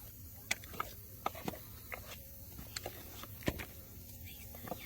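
Irregular light clicks and knocks, about half a dozen spread over a few seconds, the sharpest one past the middle, over a low steady hum.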